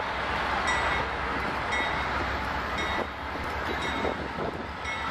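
Canadian Pacific Holiday Train approaching: the diesel locomotive rumbles steadily, and a short ringing tone repeats about once a second, like the locomotive's bell.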